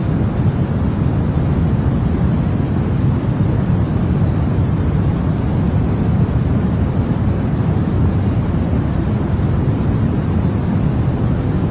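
Continuous white noise for baby sleep: a deep, even rushing sound, stronger in the low end than the high, with no tones and no changes.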